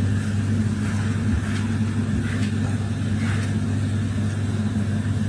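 A steady low mechanical hum with faint scattered ticks over it.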